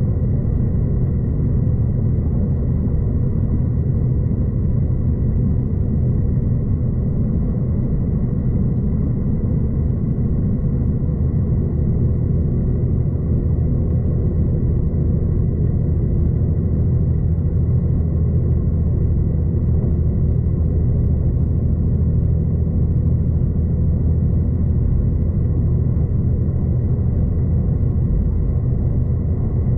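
Steady low rumble of a V/Line passenger train running along the track, heard from inside the carriage, with a faint steady high whine over it.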